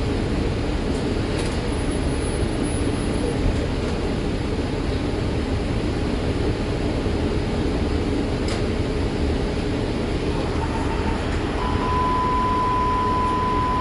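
Inside an MTA city bus on the move: steady engine and road rumble. Near the end a short high beep is followed by a steady beep lasting about two seconds.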